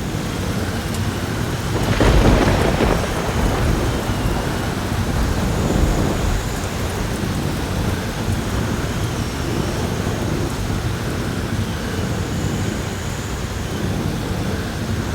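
Heavy rain pouring steadily in a thunderstorm, with a burst of thunder about two seconds in.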